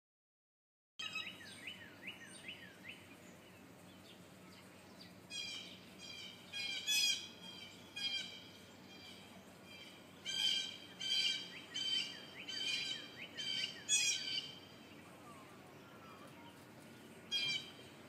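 Bird calls: a few short downward-sliding calls about a second in, then a run of harsh, repeated calls from about five to fourteen seconds in, and one more near the end.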